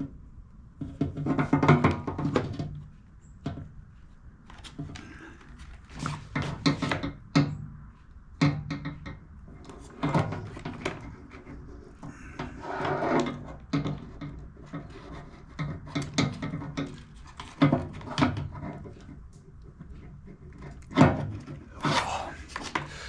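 Irregular knocks, clicks and rattles from hands and tools handling a small generator and its parts during reassembly.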